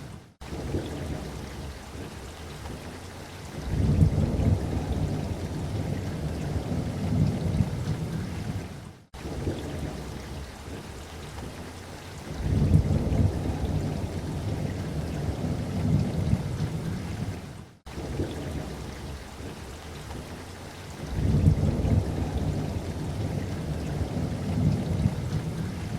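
Steady light rain with rolling thunder: three long, low rumbles of a few seconds each come and go over the hiss of the rain. The sound cuts out for a split second roughly every nine seconds, where a short recording loops.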